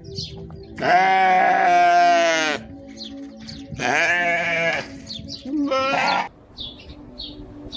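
Bleating livestock: three loud bleats, the first long and held for nearly two seconds, the next two shorter, around four and six seconds in.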